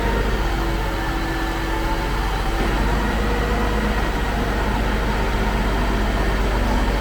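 Concrete pump truck's engine running steadily while its boom is being moved into position: a loud, unbroken low drone with a few faint steady tones above it.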